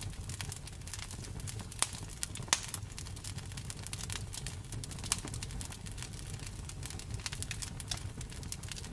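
Wood fire crackling, with many sharp pops, the loudest two about two and two and a half seconds in, over a low steady rumble of the flames.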